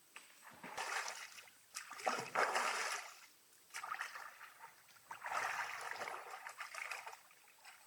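Water splashing and sloshing in three irregular bursts of a second or two each, with quieter gaps between them.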